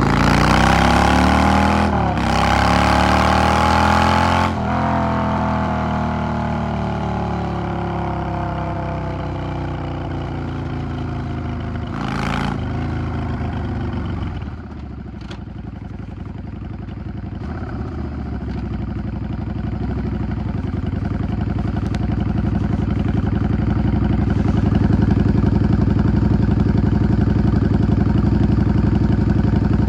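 Yamaha XVS 650 V-twin engine accelerating hard at first, with a brief dip about two seconds in. The revs then fall away for about ten seconds as the bike slows, settle to a low, quieter beat near the middle, and build up gradually again towards the end.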